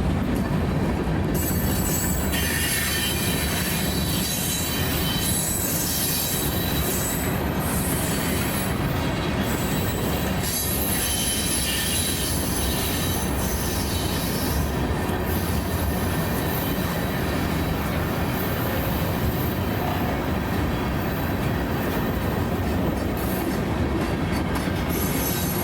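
A train rolling steadily past at close range, its wheels squealing thinly and high on the rails over the continuous rumble of the cars.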